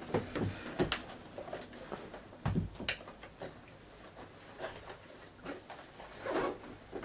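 Light handling noises: scattered small clicks and knocks, with a dull thump about two and a half seconds in and a sharp click just after it. A brief faint voice-like sound comes near the end.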